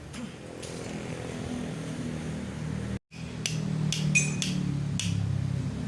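Metal tools and parts clinking: a handful of sharp metallic taps in the second half, one ringing briefly, over a steady low hum.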